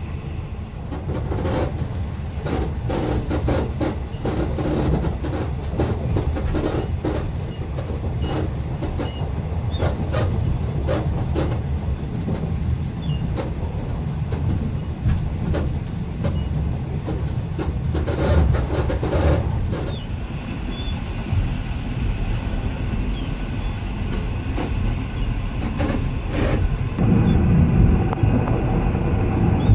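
V/Line passenger train running along the track, heard from inside a carriage: a steady low rumble with frequent sharp clicks of the wheels over rail joints, a little louder late on.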